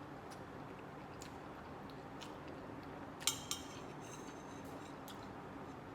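Cutlery clinking sharply on a plate twice, about three seconds in, with a few faint ticks, over the steady hum of a noisy kitchen exhaust fan.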